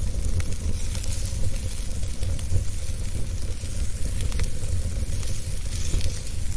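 Wood fire burning in a fireplace: a steady low rumble of the flames under a hiss and frequent small crackling pops.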